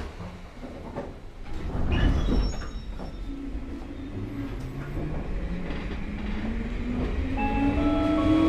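Electric railcar pulling away from a stop: a low rumble of wheels on rails, a knock and brief squeal about two seconds in, then a traction-motor whine that rises steadily in pitch as the car accelerates. A short tune of notes begins near the end.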